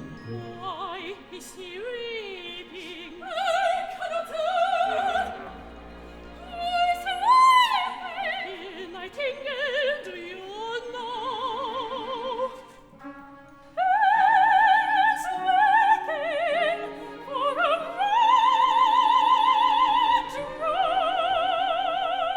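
High operatic voice singing long held and gliding notes with wide vibrato, over a small instrumental accompaniment. The voice breaks off briefly a little past the middle, then returns on sustained high notes.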